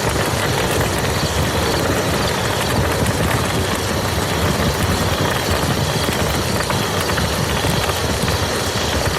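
Steady rain falling on a muddy field: an even hiss of many small drops striking the ground.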